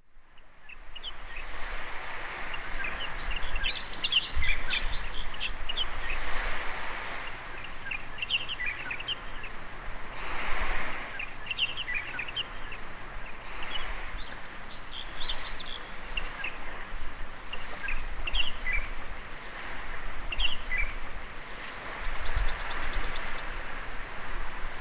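Small waves washing on a beach, the wash swelling and easing every few seconds, with birds chirping and calling over it throughout; near the end a quick run of high chirps.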